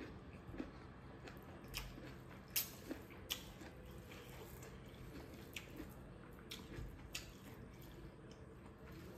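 Close-up chewing of a mouthful of fresh bamboo shoot, with scattered sharp, wet mouth clicks and smacks, the loudest about two and a half seconds in.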